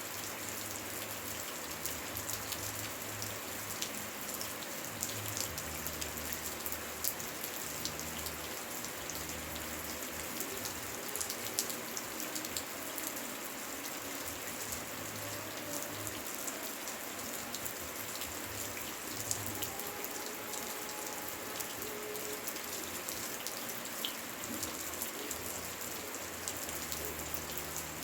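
Rain falling steadily, an even hiss dotted with many sharp ticks of individual drops striking.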